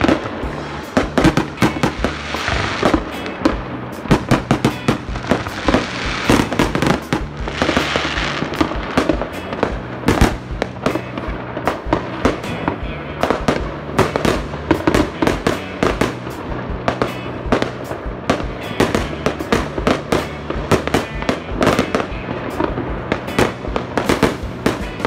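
Aerial fireworks going off in quick, uneven succession: many sharp bangs and crackles, with music playing underneath.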